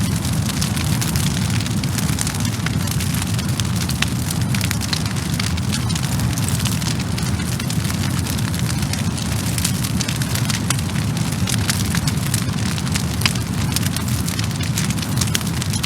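Burning wood fire crackling: a steady low rush of flame with frequent sharp pops and crackles.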